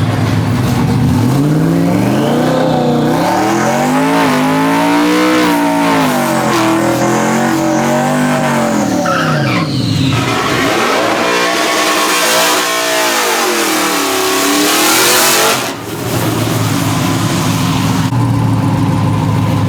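Twin-turbo Coyote V8 drag truck's engine rising and falling in pitch in two long swells with tire squeal, a rush of hiss at the top of the second, then settling back to a steady idle.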